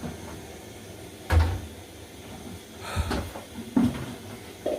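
A few knocks and bumps of things being handled in a kitchen: a low thud about a second in is the loudest, with lighter knocks around three seconds and again near the end.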